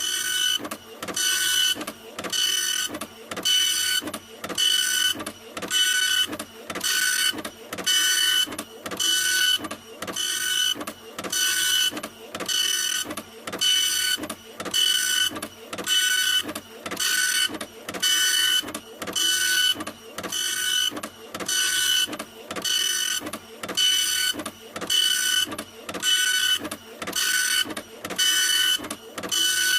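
Printer running continuously, repeating the same mechanical cycle about once a second, each pass a hiss with a high whine.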